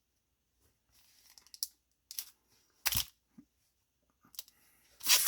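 Hands handling trading cards and a foil booster-pack wrapper: short scattered rustles and crinkles, a thump about three seconds in, and a loud crinkle near the end.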